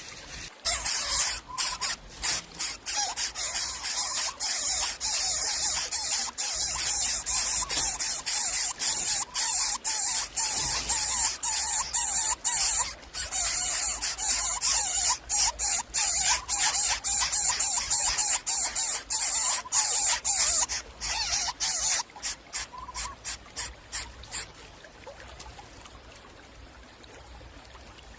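Young predators hissing loudly in rapid, repeated bursts, with faint squeaky notes among them, as they beg for food. The hissing stops about 22 seconds in.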